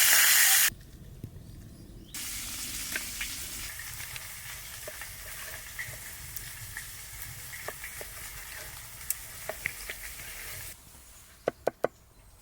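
Food frying in a pan over an open fire, sizzling with scattered small pops. A loud sizzle cuts off under a second in, then a softer sizzle resumes about two seconds in and stops near the end. Three sharp clicks follow in quick succession.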